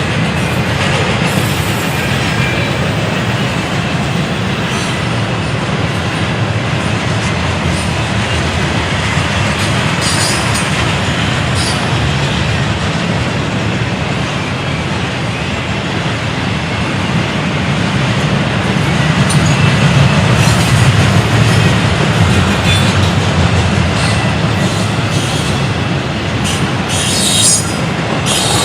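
Railroad cars rolling past on the track in a steady rumble, with brief high wheel squeals a few times.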